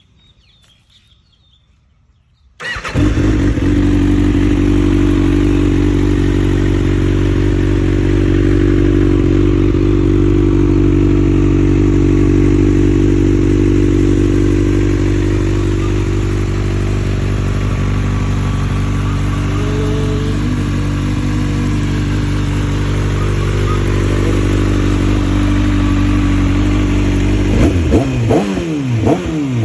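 Kawasaki ZX-6R inline-four with a LeoVince LV10 slip-on exhaust starting up about three seconds in and settling into a steady idle. Near the end the throttle is blipped a few times, the pitch sweeping up and back down.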